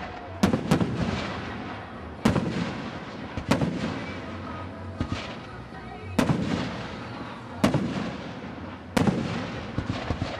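Fireworks display: aerial shells bursting in a series of sharp bangs, about eight of them a second or two apart. Each bang trails off in a rolling echo.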